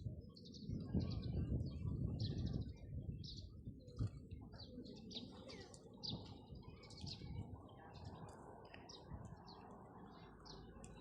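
Small birds chirping, many short high chirps coming every second or so, over a low steady rumble of background noise.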